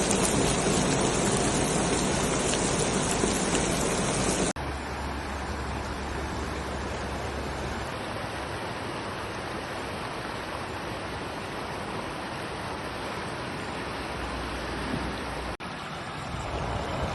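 Heavy rain: a steady rush of falling and running water. It is louder for the first four and a half seconds, then drops suddenly to a quieter, even rush. A low wind rumble on the microphone builds near the end.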